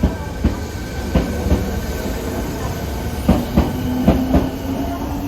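Fukuoka City Subway 1000N-series electric train running past, its wheels clacking in pairs over the rail joints, with a steady high whine under the clacks. The 1000N series is known for a jet-engine-like whine.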